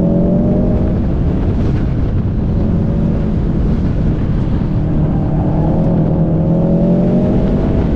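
Car engine under way on a winding road, the note easing off early on and then rising steadily as it accelerates through the second half, over constant road and wind rumble.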